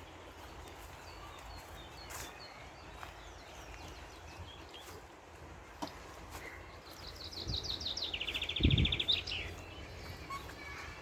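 A small songbird sings one quick trill of rapid notes that steps down in pitch and ends in a brief upward flourish, over faint outdoor background with a few soft chirps. A low thump comes just before the trill ends.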